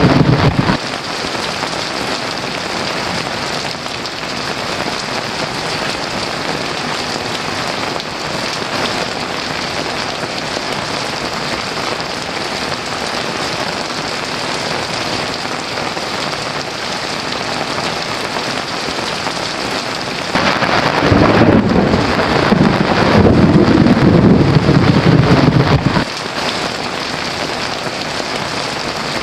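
Heavy rain falling steadily. A thunder rumble dies away just under a second in. A louder rolling thunder rumble starts about twenty seconds in, lasts some five seconds and then stops suddenly.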